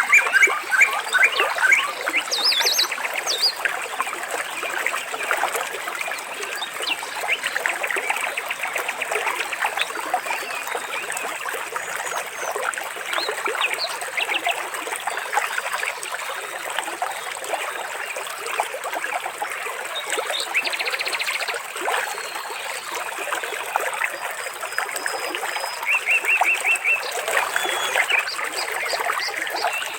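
A small stream trickling steadily, with birds chirping and giving quick trills over it several times.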